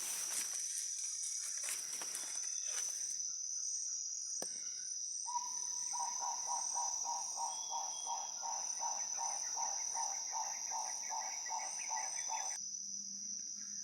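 Rainforest insects keeping up a steady high-pitched shrill. About five seconds in, an animal starts a regular pulsing call, two to three pulses a second, that stops shortly before the end. Rustling footsteps on forest litter can be heard in the first few seconds.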